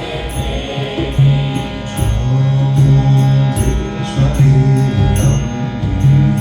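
Kirtan music: a steady held drone of sustained chords with a drum beat and hand cymbals striking about twice a second.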